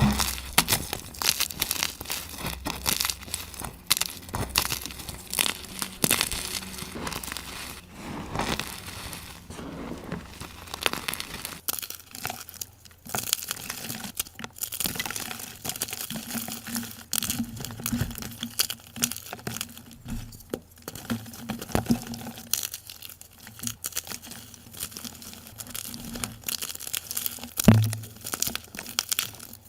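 Blocks of gym chalk being crushed and crumbled, a dense run of dry crunching and crackling, played sped up.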